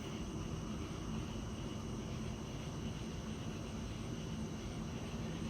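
Steady outdoor background noise: a low hum with a faint, even high-pitched insect drone over it.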